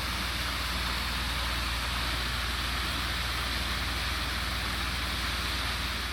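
Steady rainfall hiss with a low steady hum underneath, fading out near the end.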